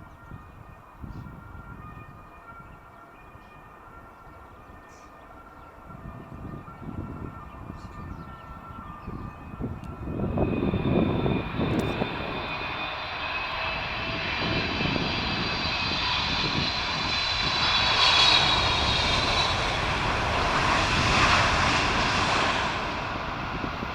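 Swiss Boeing 777-300ER's GE90 turbofans on a landing approach, passing close: faint at first, the engines swell loudly about ten seconds in with a high fan whine that slides slightly lower as the jet goes by, peaking twice before easing off near the end.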